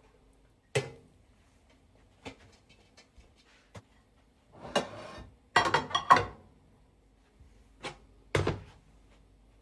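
Household objects being handled: scattered knocks and thuds, a short scraping rustle about halfway through, then a quick cluster of clattering knocks (the loudest part) and two more knocks near the end.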